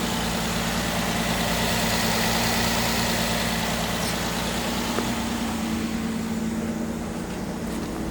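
Nissan Quest V6 engine with 153,000 miles idling steadily during a run test.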